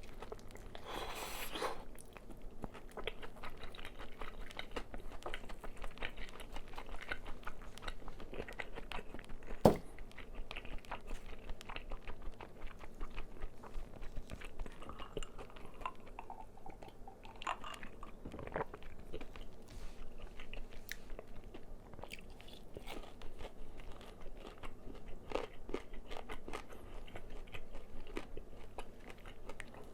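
Close-up crunching and chewing of crispy fried chicken, with many short crackling bites and chews of the fried coating. One sharp click about ten seconds in is the loudest sound.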